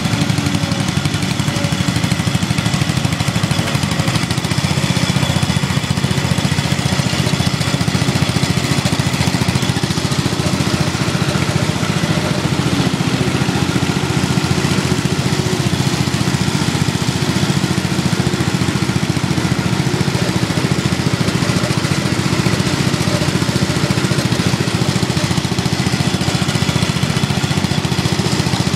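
Small single-cylinder lawn and garden tractor engines running steadily at a constant speed.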